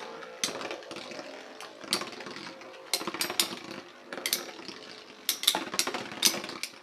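Metal Beyblade spinning tops whirring in a stadium, with frequent sharp clicks as they strike each other and the stadium wall.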